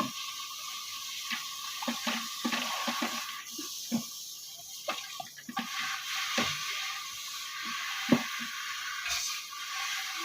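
Water running and splashing, with scattered knocks and clatters, as in washing things by hand.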